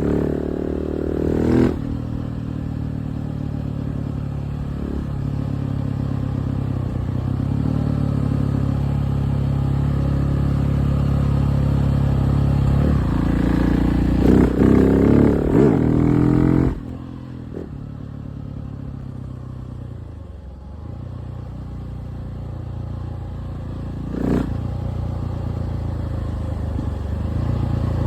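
KTM 690 SMC R's single-cylinder engine under way, its note building steadily as the throttle is held open, with loud revving bursts. About seventeen seconds in it drops off suddenly to a lower run, then picks up again with a blip near the end.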